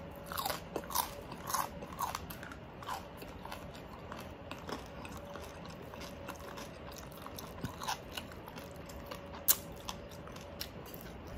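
Close-up chewing of crispy oven-baked pork, its crackling skin crunching in short sharp bites. The crunches come thick in the first three seconds, then more sparsely, with one sharp crack about nine and a half seconds in.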